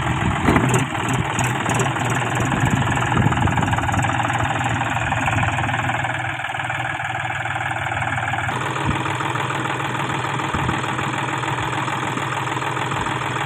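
John Deere tractor's diesel engine running steadily, its tone changing abruptly about eight and a half seconds in.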